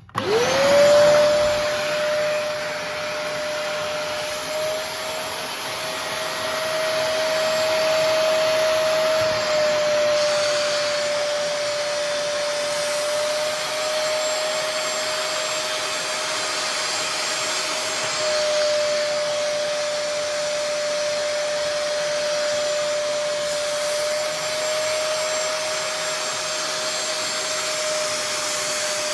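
Bissell Spot Clean Pro portable carpet cleaner switched on: its suction motor spins up within about a second, then runs steadily with a whine over the rush of air, shampooing upholstery.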